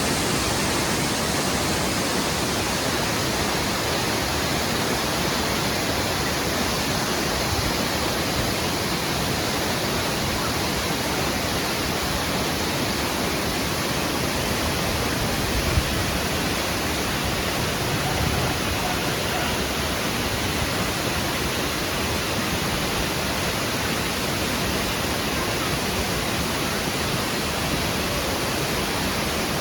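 Waterfall: falling water making a steady, even rushing sound with no breaks.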